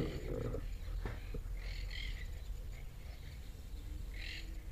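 A bird calls faintly twice in short chirping phrases, about two seconds in and again near the end, over a quiet outdoor background. A couple of soft clicks come about a second in.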